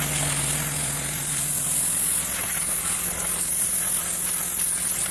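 Gas-engine pressure washer running, with its high-pressure water jet spraying steadily in a constant hiss over the engine's low hum.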